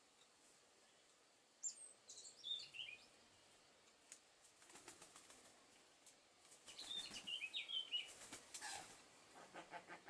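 Faint bird sounds: twice, a quick run of high chirps falling in pitch, about two seconds in and again about seven seconds in, with fluttering wing beats and rustling in the second half.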